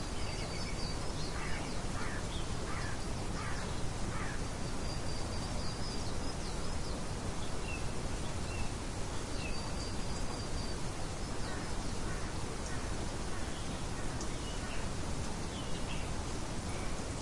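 Steady rain hiss with scattered wild bird calls over it: a cluster of short calls in the first few seconds and high thin whistles now and then.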